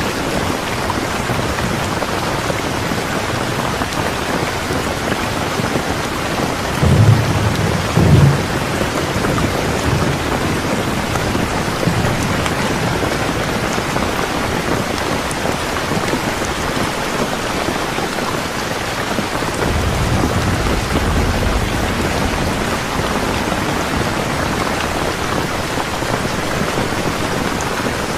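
Steady, heavy rain falling on a surface. Low rumbles of thunder come briefly about seven seconds in and again, longer and softer, around two-thirds of the way through.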